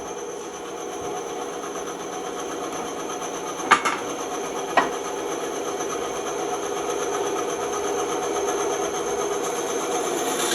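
Electric saw running steadily, slowly growing louder as it works, with two sharp knocks a little under four and about five seconds in.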